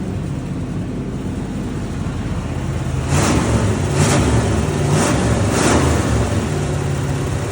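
Small-block V8 in a GAZ-24 Volga running through its exhaust on its first start, a low uneven rumble. From about three seconds in it gets louder, with four short revs roughly a second apart.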